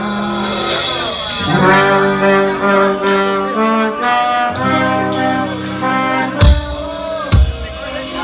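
Band playing an instrumental passage led by horns (brass and saxophone) in held chords, with two heavy drum hits near the end.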